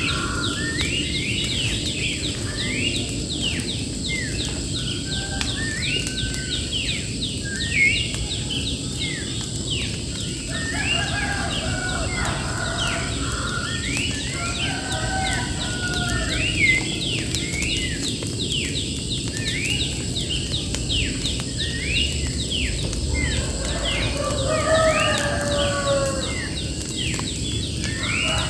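Birds singing: a rapid, continuous string of short sweeping chirps, with a few lower warbled phrases now and then, over a steady low rushing noise and a thin, steady high-pitched tone.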